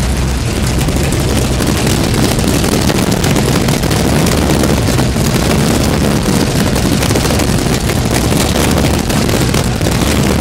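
Twin-turbocharged Pontiac Firebird engine running loudly and steadily during its first run after the twin-turbo build.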